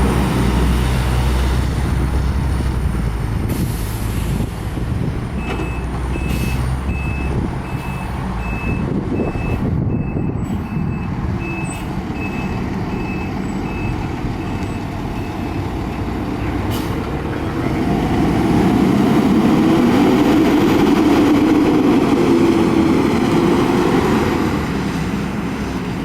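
Diesel fire truck running with a deep rumble while its reversing alarm beeps about twice a second for several seconds, with short air-brake hisses. Later the engine grows louder for several seconds as the truck pulls away.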